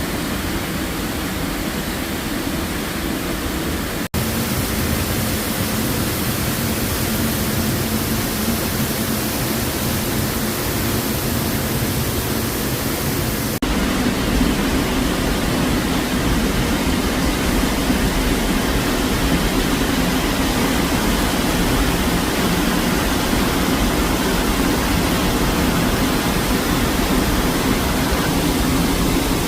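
Waterfall rushing, a loud steady roar of falling water, broken by two abrupt cuts about four and fourteen seconds in.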